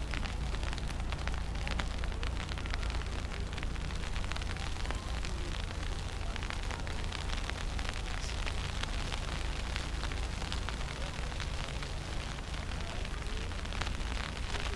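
Snowstorm wind buffeting the microphone as a steady low rumble, with a dense constant crackle of small ticks over it.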